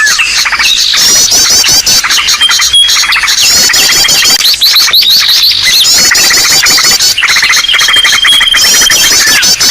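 Bird-lure recording of many small birds calling at once: a loud, continuous, crowded mix of rapid chirps, trills and squawks, with a thin steady whistle that comes and goes.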